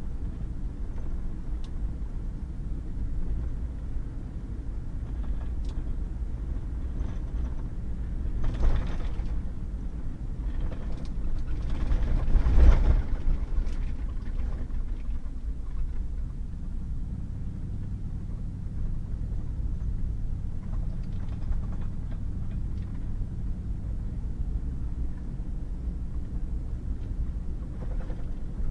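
Pickup truck driving on a wet, muddy gravel road: steady low tyre and engine rumble, with two louder brief rushes about a third of the way and halfway through.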